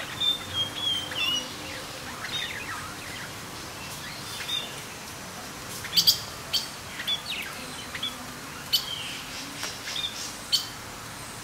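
Birds chirping: a run of short whistled notes, some sliding down in pitch, then a series of sharp, high chips from about six seconds in.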